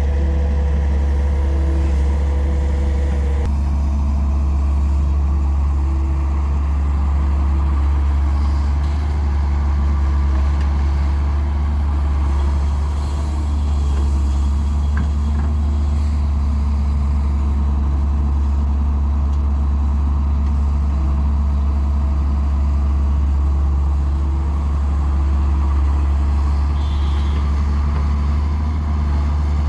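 Heavy diesel engine running steadily with a deep, even hum, as an excavator works at loading mud into a dump truck.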